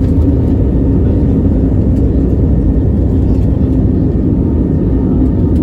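Airbus A320 cabin noise: the jet engines and rushing air heard inside the cabin as a loud, steady, low rumble, with a faint steady whine above it.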